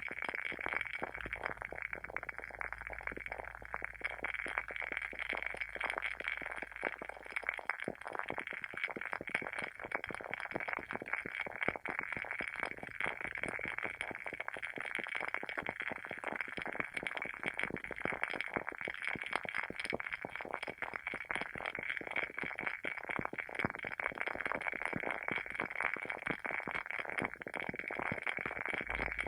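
Wooden wick of a WoodWick candle burning, crackling steadily with dense, rapid little pops like a small fire.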